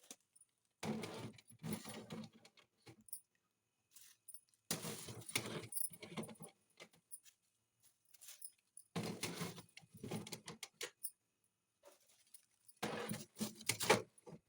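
Objects being handled in four separate bursts of rustling and clinking, each a second or two long, with short quiet gaps between.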